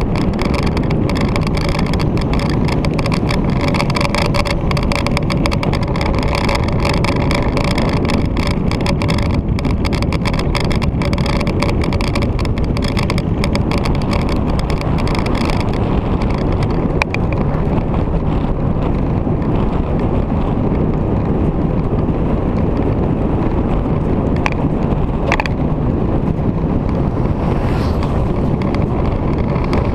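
Victory motorcycle's V-twin engine running steadily at road speed, with wind rushing and buffeting over the microphone, heavier in the first half.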